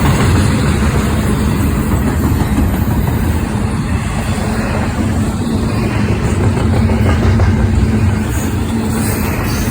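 A train running, its diesel engine giving a steady low rumble with a faint steady hum over it.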